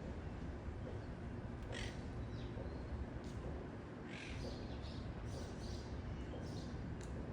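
Wild monk parakeets calling: a series of short, squawking calls, several in quick succession through the middle, over a steady low rumble.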